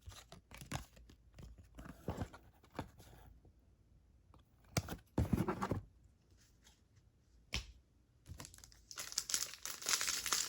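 Trading cards handled with a few scattered soft clicks and rustles, then, from about eight seconds in, a Topps Stadium Club card pack's wrapper torn open and crinkled, loudest near the end.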